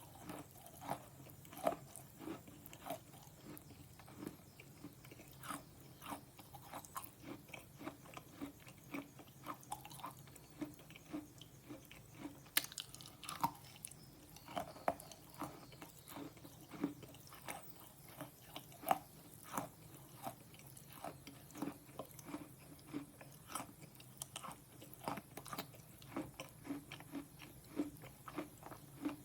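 A person biting and chewing slate pencil: a steady run of short, sharp crunches, about two a second.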